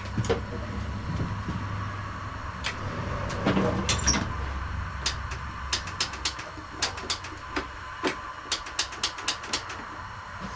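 Lawn tractor starter attempt: a low motor drone for about four seconds that fades out without the engine catching, with scattered sharp clicks throughout. The replacement starter turns out to be dead.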